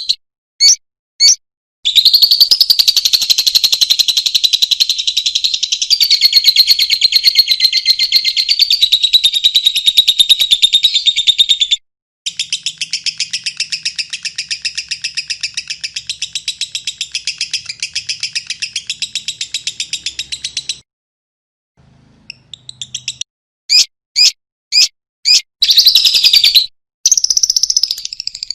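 Lovebird chattering in long, very rapid trills of shrill, high notes, broken by two short pauses, with a few single chirps about a second in and near the end.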